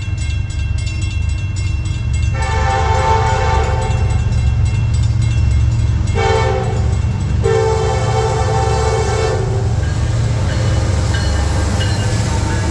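Diesel freight train led by SD60E locomotive 6971, its air horn sounding a long blast about two seconds in and then two shorter blasts, over the steady low rumble of the locomotives' engines.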